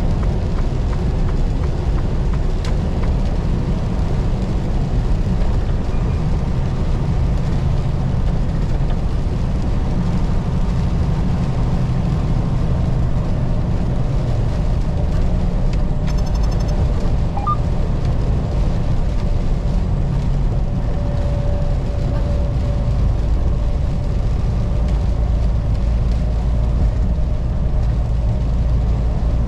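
Semi-truck running down the highway: a steady low drone of diesel engine and road noise, heard inside the cab.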